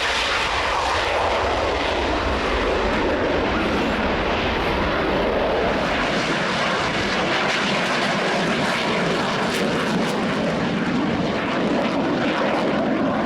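Aircraft engines running, a loud, steady rushing noise without clear tones; the deep rumble thins out about halfway through.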